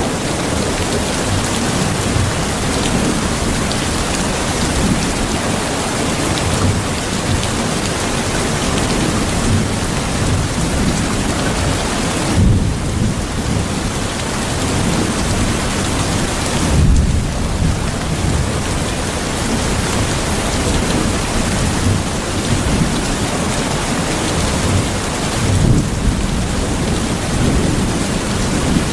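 Steady heavy rain falling, with low rolls of thunder rumbling under it three times, around the middle and near the end.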